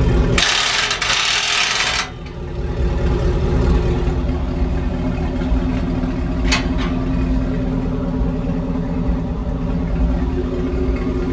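Car engine idling steadily through a straight-piped exhaust with the mufflers deleted. A loud hissing burst runs for about a second and a half near the start, and there is a single click about six and a half seconds in.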